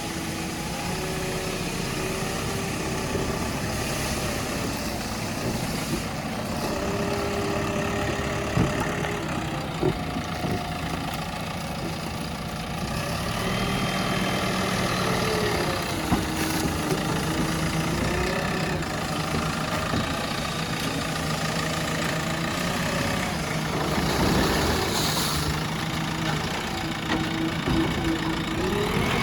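JCB 3DX backhoe loader's diesel engine running as the front bucket loads wood waste into a truck, its pitch rising and falling as the engine works under load, with a few short knocks.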